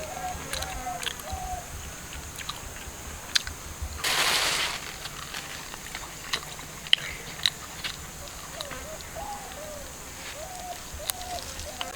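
Someone eating roast duck: scattered crunching and chewing clicks, with a short rustling hiss about four seconds in. Small wavering chirps, likely birds, sound near the start and again near the end.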